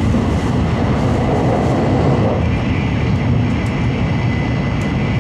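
Steady running noise of a Nozomi Shinkansen bullet train, heard from inside the passenger car.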